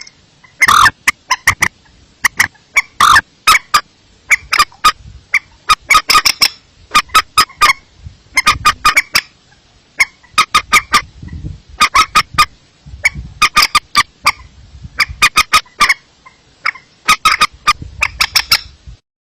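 Recorded lure call of a paddy-field waterbird: loud clusters of short, sharp, rapidly repeated notes, one burst after another about every second, cutting off abruptly near the end.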